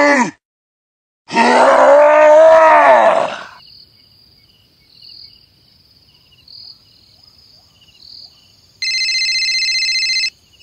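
A long, loud groan-like call rising and falling in pitch, then a faint high tone, and near the end a loud steady electronic buzzing tone lasting about a second and a half.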